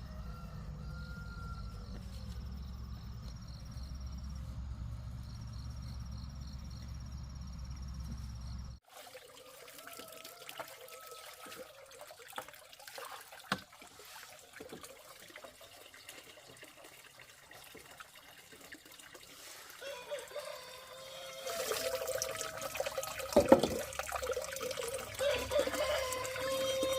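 Water trickling and gurgling, growing louder near the end, after a sudden cut from a low steady rumble about nine seconds in.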